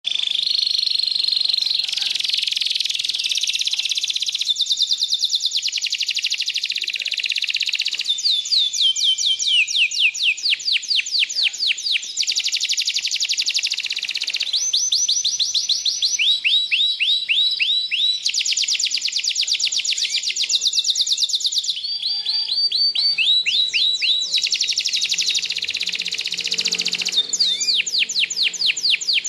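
Canary singing a long, unbroken song of rapid trills, each run of fast repeated notes switching to a new phrase every second or two.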